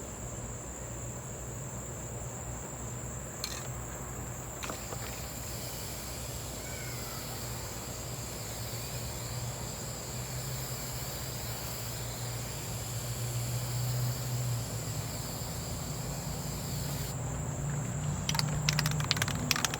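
Aerosol can of appliance spray paint hissing from about four seconds in until a few seconds before the end, over a steady high insect chirr. A quick run of clicks follows near the end.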